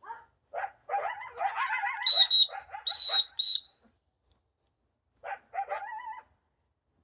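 A pair of coyotes yipping and yelping in wavering, warbling calls, in two bouts. About two seconds in, four short, shrill blasts of a dog whistle cut across the yips and are the loudest sound.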